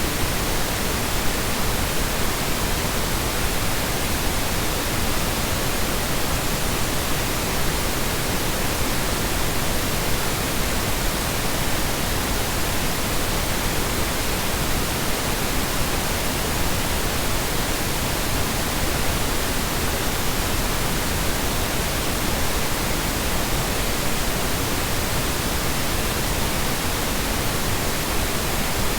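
Steady synthesized colour noise: a continuous, even hiss spread across low and high pitches alike, with no changes or events.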